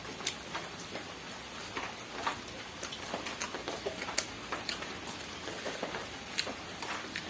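Steady rain falling, with irregular sharp clicks and smacks from eating by hand: fingers licked and scraped across a steel plate.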